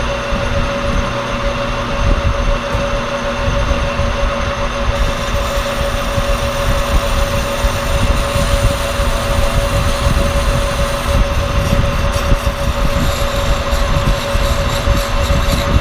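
Monarch Model K engine lathe running steadily with a constant whine over a low rumble, while a 4140 steel part is being turned.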